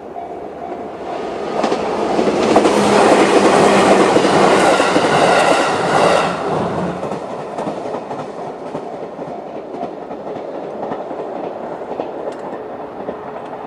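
A JR 211 series electric multiple-unit train passing through a level crossing, loudest for about four seconds, with a whine over the noise of the wheels, then quieter as it moves away. The crossing's JR standard electronic warning bell is ringing in pulses at the start and is drowned out by the train about a second in.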